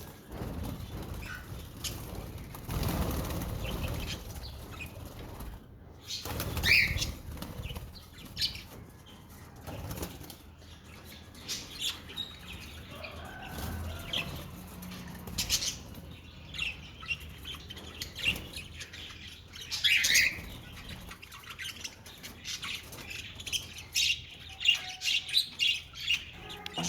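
Budgerigars flapping and fluttering their wings again and again in short bursts, with brief high chirps from the birds, most often near the end.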